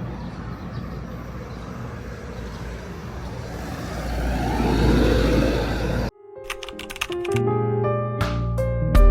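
Street ambience with traffic: a vehicle passing grows louder and then cuts off abruptly about six seconds in. Background guitar music then resumes.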